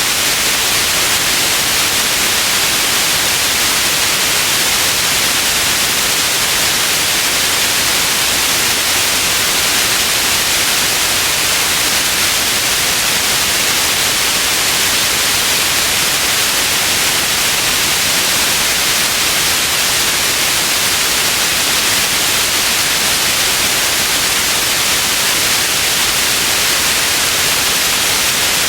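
Steady white noise, an even hiss strongest in the upper range, with no change throughout.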